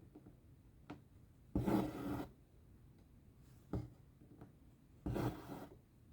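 Cross-stitch thread drawn through the fabric with a rasping swish, twice, each pull lasting under a second. There are a few soft ticks in between as the needle goes through the cloth.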